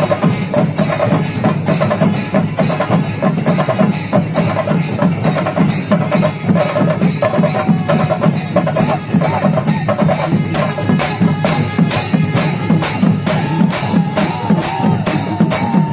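Percussion-led festival music: drums and small cymbals beating fast and dense, with a wavering high melody line over them. About eleven seconds in, the strokes settle into a clearer, regular beat.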